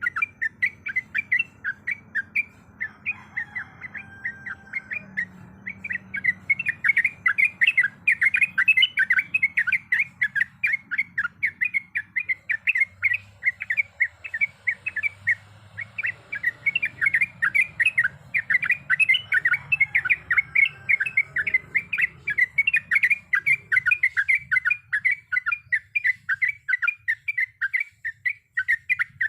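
Sooty-headed bulbul singing a long, fast run of short, sharp notes, several a second, softer for a few seconds midway and then full again.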